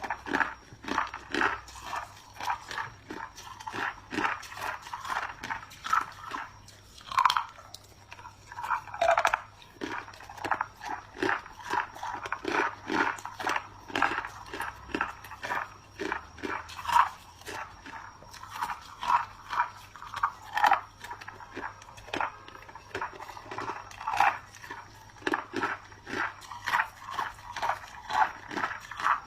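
Clear ice chunks being bitten and chewed: a close, continuous run of sharp crunches, several a second, with no pause.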